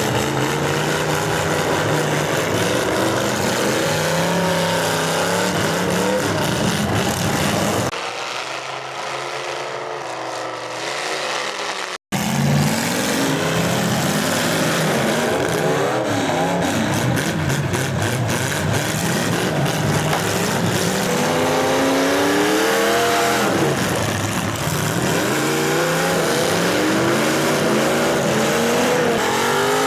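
Several demolition derby car engines revving hard together, their pitch rising and falling as the cars accelerate, reverse and ram each other. The sound is duller and quieter for a few seconds, then cuts out for an instant about twelve seconds in.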